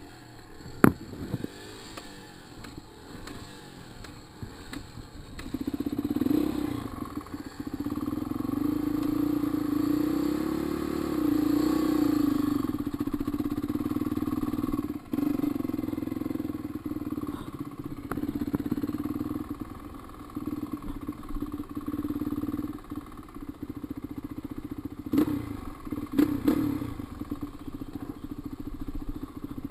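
Dirt bike engine, fairly quiet for the first few seconds with a few knocks, then running hard under load from about six seconds in. The note dips briefly about halfway through, and the revs rise and fall again near the end.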